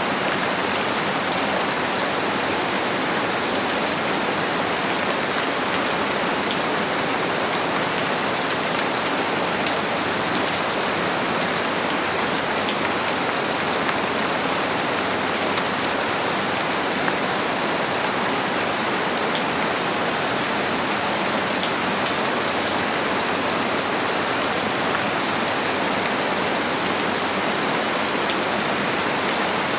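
Steady rain falling: an even, unbroken hiss flecked with many fine drop ticks.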